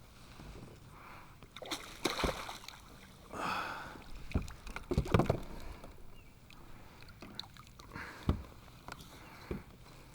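Water sloshing and splashing around a kayak, with several knocks and low thumps, the loudest about halfway through.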